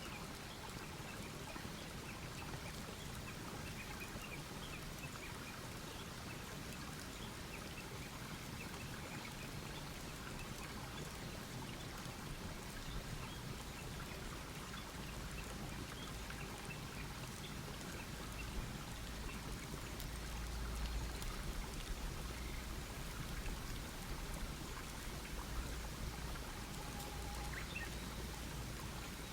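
Wood campfire crackling steadily, a dense patter of small pops and snaps over a soft hiss. Faint bird chirps come through early on, and a low rumble swells in the second half.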